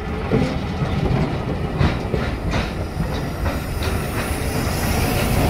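Heritage railway coaches rolling slowly past close by, a steady low rumble with irregular clicks of the wheels over rail joints. It grows louder near the end as the diesel shunter at the rear of the train comes past.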